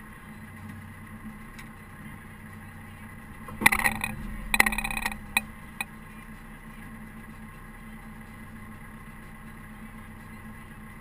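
Caterpillar TH330B telehandler's diesel engine running steadily, with two loud, harsh half-second bursts of noise about four and five seconds in, followed by a couple of short clicks.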